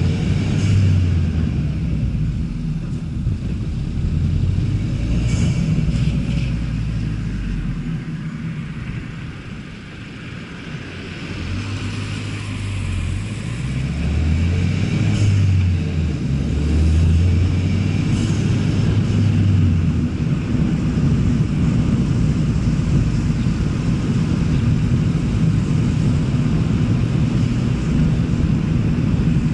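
Ford Fiesta ST's turbocharged engine running, its low note holding and then stepping up and down in pitch as the revs change.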